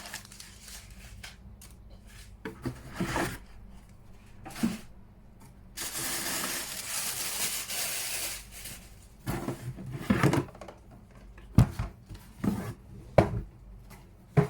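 Unboxing handling noise from the air cooler's packaging: irregular knocks and rubbing of cardboard and plastic, with a steady rubbing noise for about two and a half seconds in the middle and several sharp knocks near the end.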